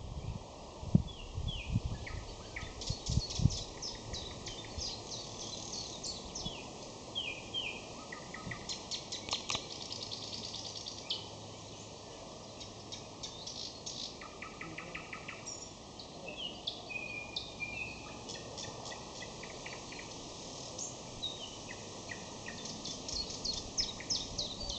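Nightingale singing: phrases of rapid clicking trills and short whistled notes, separated by brief pauses. A few low thumps in the first few seconds.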